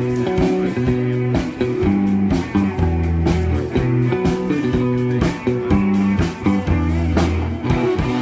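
Live rock band playing without vocals: guitar chords over held bass notes, with steady drum hits.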